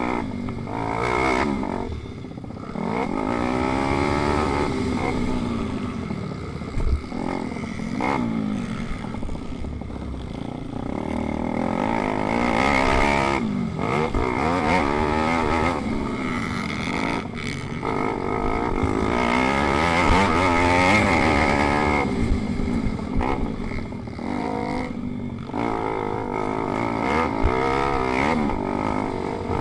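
Single-cylinder pit bike engines racing, revving up and dropping again and again through the gears.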